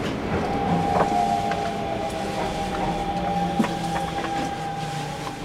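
Hanshin Railway local electric train slowing to a stop, with a steady high whine held for most of the time over a low running rumble, fading toward the end. A couple of sharp clicks, one about a second in and a louder one a little past halfway.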